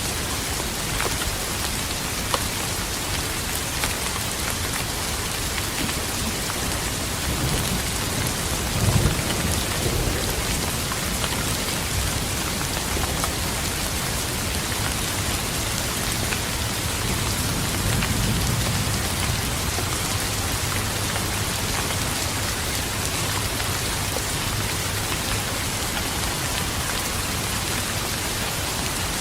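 Steady rain falling, with thunder rumbling low twice: a short roll that peaks about nine seconds in, and a longer, softer roll around eighteen seconds in.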